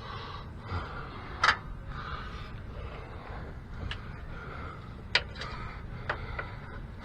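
A few sharp, isolated clicks and knocks of tools and metal parts being handled, about four in all, over low steady background noise.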